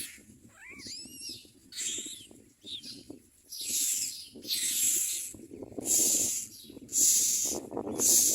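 Common myna nestlings begging for food with repeated harsh, hissing screeches, about one a second. About a second in there is a short whistled call that rises and falls in pitch.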